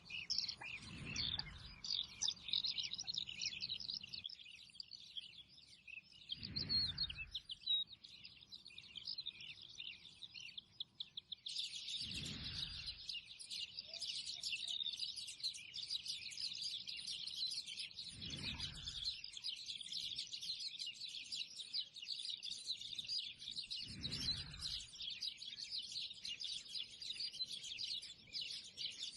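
Many small birds chirping and twittering together in a dense, continuous chorus. A low whoosh passes about every six seconds.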